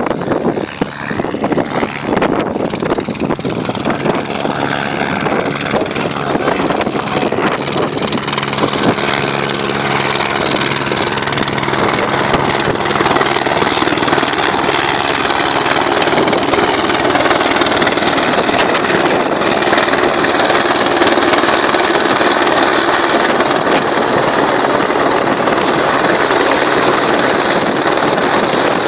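Helicopter rotor and engine running, its steady beat growing gradually louder. Wind buffets the microphone in the first few seconds.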